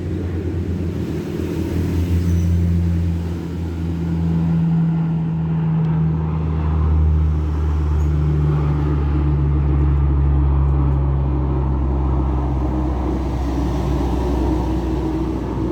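A motor vehicle's engine running with a steady low hum, its pitch shifting slightly partway through.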